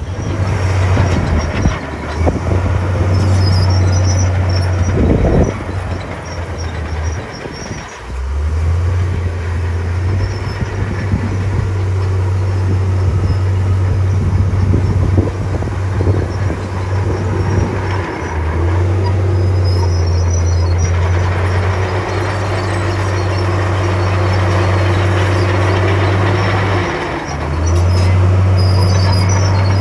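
Komatsu bulldozer working: its diesel engine runs with a loud, steady drone that dips and picks up again three times, while the steel tracks squeak and clank.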